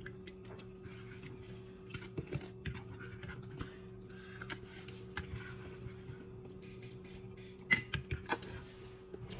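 Scattered small clicks, taps and scrapes of someone eating noodles and rice cakes, with a few louder clicks near the end, over a steady low hum.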